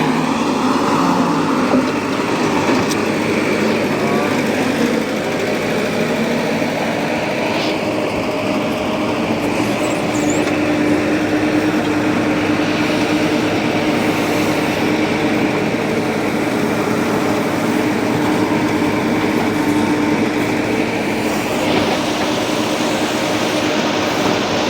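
Heavy diesel machinery running steadily, a JCB 3DX backhoe loader working with tractors, with a steady hum joining about nine seconds in.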